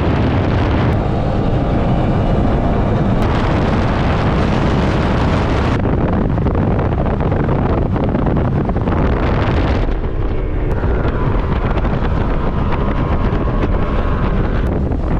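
Performance boat engine running at speed, with heavy wind buffeting the microphone.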